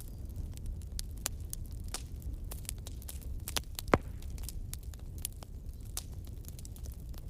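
Bonfire crackling: irregular sharp pops and snaps of burning wood over a steady low rumble of the flames, with one louder pop about four seconds in.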